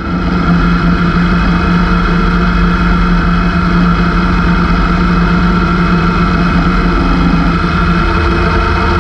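Honda CB500X motorcycle's parallel-twin engine running at a steady, unchanging pitch.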